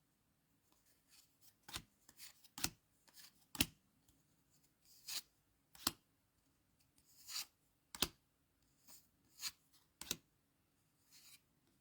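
Trading cards being handled and flicked through one by one: irregular sharp snaps of card stock, with a few longer sliding rustles.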